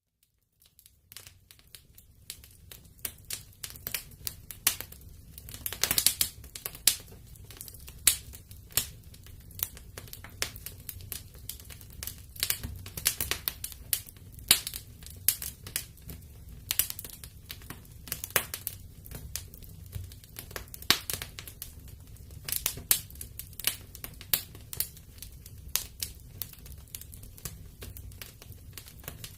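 Wood fire crackling in a fireplace: irregular sharp pops and snaps over a steady low rumble of the flames, coming in after about a second of silence.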